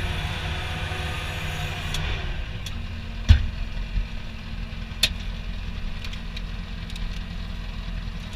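A vehicle engine running steadily at low revs, with a sharp knock about three seconds in and a few lighter clicks.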